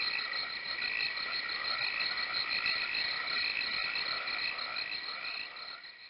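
A chorus of frogs calling: dense, fast pulsing trills over a steady high tone, fading gradually and cutting off at the end.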